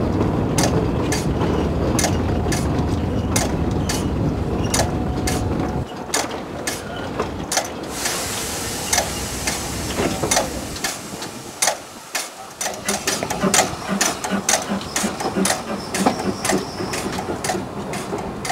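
Narrow-gauge train running over rail joints: a steady rumble with regular sharp clicks. About six seconds in the rumble drops away, while the clicking and rattling go on, thicker and less regular towards the end.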